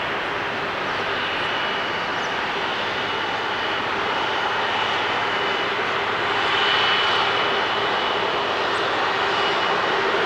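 Widebody airliner's jet engines running: a steady rushing noise with a thin high whine, growing slightly louder about six seconds in.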